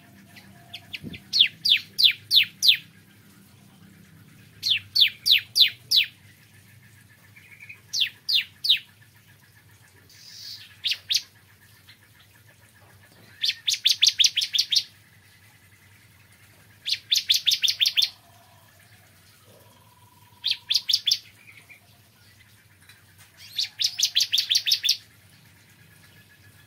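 Ciblek kristal (a prinia) singing: short bursts of rapid, sharp, high chipping notes, some run together into fast trills, repeated every couple of seconds.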